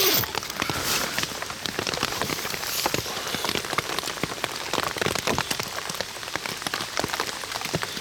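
Heavy rain falling on a tent's flysheet, heard from inside the tent: a dense, steady patter of countless drop impacts.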